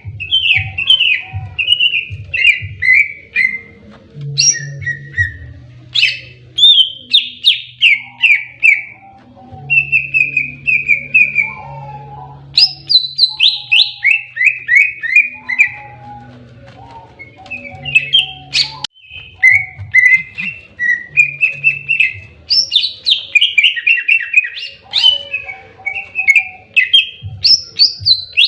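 Greater green leafbird (cucak ijo) singing a loud, fast 'fighting' song: rapid runs of short descending chirps strung into repeated phrases, with only brief pauses.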